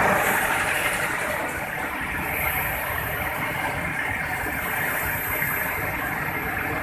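Toyota Land Cruiser Prado engine just started and idling, its sound easing down over the first couple of seconds and then holding steady. A faint high whine runs over it.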